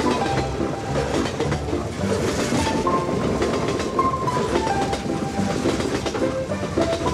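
Train wheels clattering over rail joints, a steady clickety-clack, with background music's held melody running under it.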